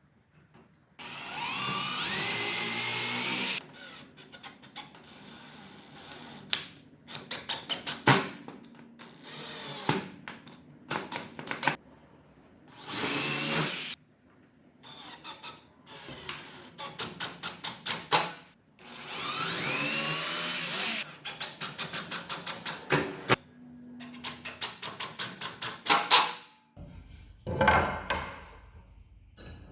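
Power drill run in a series of short bursts, its motor whine rising as it spins up, with stretches of rapid, even ticking between, working into plywood.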